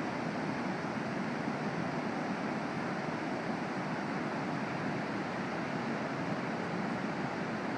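Pacific Ocean surf: a steady, even rushing of breaking waves.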